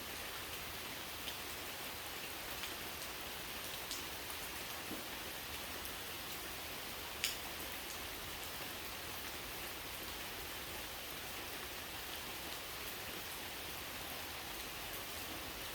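Steady rain falling: an even hiss with scattered close drops tapping, and one sharper tap about seven seconds in.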